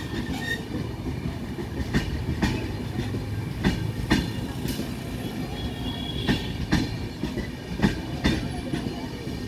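Passenger train coaches rolling past at low speed: a steady rumble with the wheels clacking over rail joints, the clacks coming in pairs about half a second apart every second or two.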